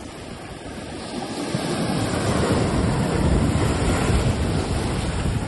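Ocean surf washing onto a rocky shore, a steady rush of breaking waves that swells louder over the first two seconds, with wind rumbling on the microphone.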